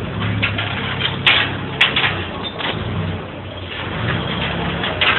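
A vehicle engine running, with a steady low hum that swells and eases. Sharp knocks or clanks cut across it, two loud ones near the middle and more rattling throughout.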